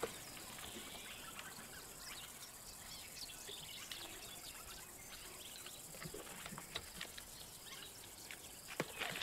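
Faint outdoor ambience with scattered small bird chirps and occasional light clicks.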